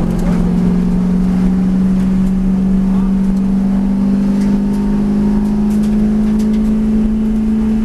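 V8 race car engine running under load, its note climbing slowly and steadily as the car accelerates.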